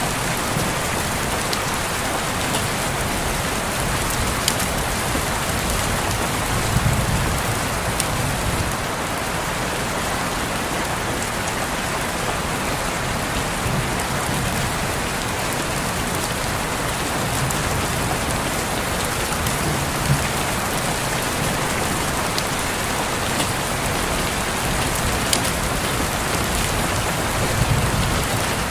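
Steady rain falling on a window pane, an even hiss with occasional sharper single drops ticking against the glass.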